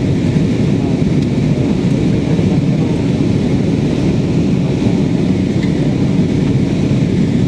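Steady jet engine and airflow noise heard from inside an airliner's passenger cabin in flight, loud and unbroken, with most of its weight low.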